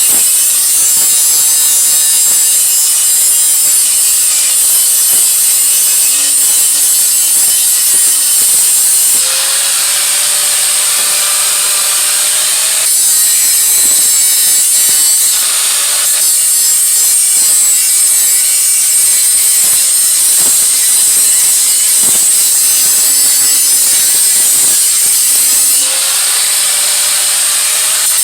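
A cutting tool working steel off an exhaust head pipe, making a continuous harsh rasping noise that shifts in character every few seconds, with a faint rising whine twice.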